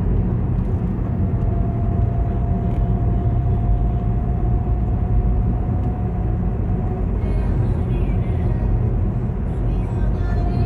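Motor vehicle running, a steady low rumble of engine and road noise, with a faint steady whine through the middle.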